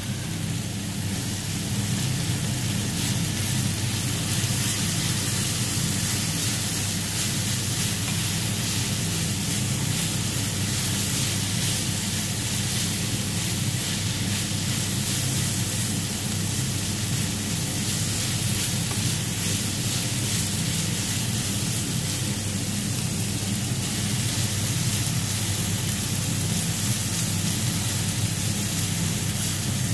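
Chicken tocino frying in a nonstick pan: a steady sizzle.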